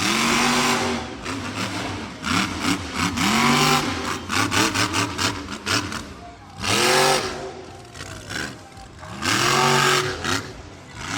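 Monster truck engine revving hard in repeated throttle bursts, its pitch climbing and falling with each one, including a run of quick short blips around the middle, and dropping back between bursts.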